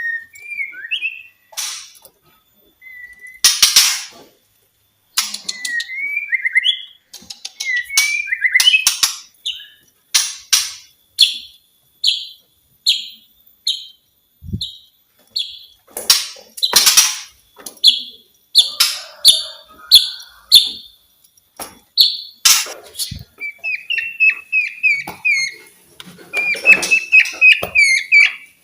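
White-rumped shama (murai batu) singing a varied song of short whistled phrases and sharp, cracking notes with brief pauses between them. Near the end comes a quick run of repeated notes.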